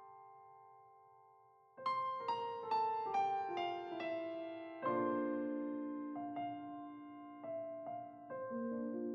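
Gentle solo piano music. A chord dies away, then from about two seconds in a run of single notes steps downward and leads into held low chords.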